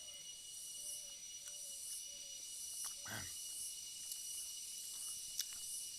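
Faint steady chirring of insects, with a high pulse about twice a second. A low thump comes about halfway through, and a short click near the end.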